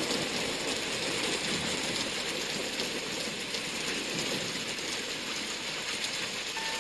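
Steady rain noise. Just before the end an electronic beeping begins.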